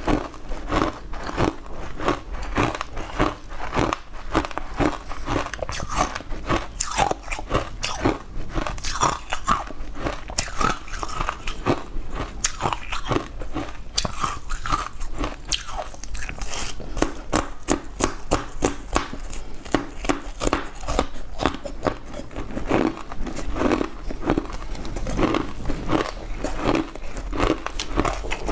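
A person biting and chewing something crunchy close to the microphone: a dense, unbroken run of crunches and sharp crackles.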